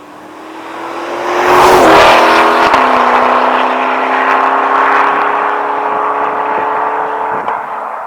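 A C8 Corvette Stingray's 6.2-litre V8 on an AWE Touring Edition cat-back exhaust, accelerating hard past. It is loudest about two seconds in as it passes, drops in pitch a moment later, then pulls away with the note climbing again and slowly fading.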